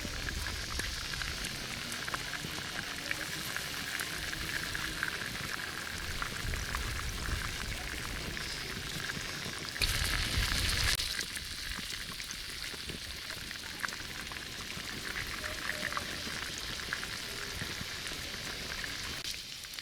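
Food frying in hot oil: a steady sizzle full of small crackles, with a louder surge of sizzling about ten seconds in.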